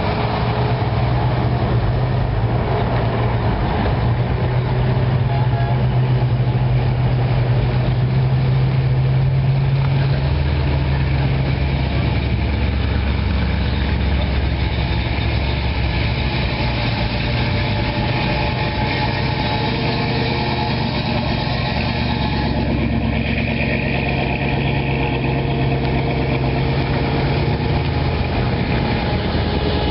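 Classic car engines idling as the cars creep past one after another, a steady low exhaust note. A deeper engine note takes over about ten seconds in.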